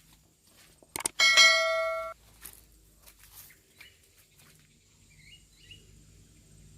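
A single metallic clang that rings for about a second and then cuts off suddenly, followed by a few faint bird chirps.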